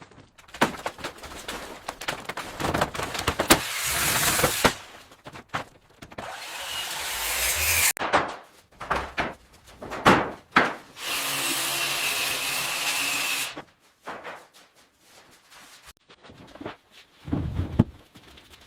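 Building work on wood: a run of knocks, scraping and rubbing, with power tools running for a few seconds at a time, once about six seconds in and again, steadier and with a motor whine, from about eleven to thirteen and a half seconds in.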